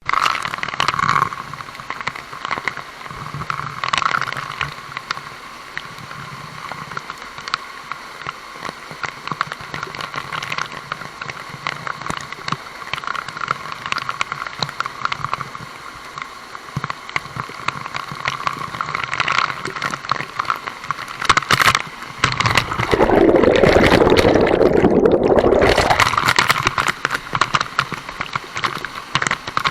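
Waterfall water rushing and splashing as a steady noise, with a louder low rumble for a few seconds near the end.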